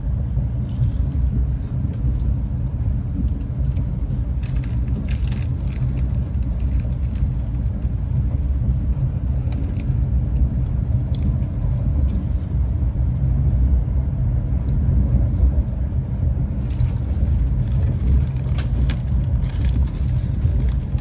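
Steady low rumble of a Renfe class 130 (Talgo 250) high-speed train running along the line, heard from on board, with a few faint clicks.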